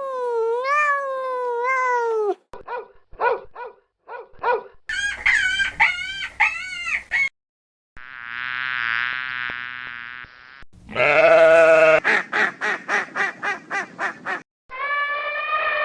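A string of short farm-animal calls from different animals, one after another with abrupt cuts between them: drawn-out pitched cries, a run of short quick calls, and near the end a rapid pulsing series of about three to four calls a second.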